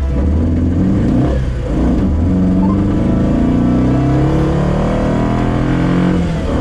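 Moskvich-408's four-cylinder engine pulling hard under acceleration, its pitch climbing steadily, with a brief drop at a gear change about a second and a half in and another near the end.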